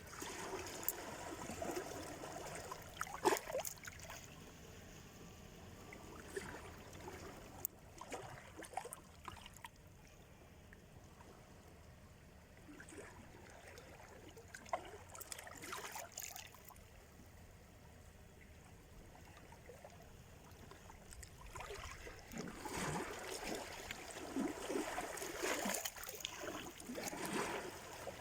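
Small sea waves washing onto the shore and draining back, with gurgling and crackling. The surges come irregularly and grow stronger over the last few seconds.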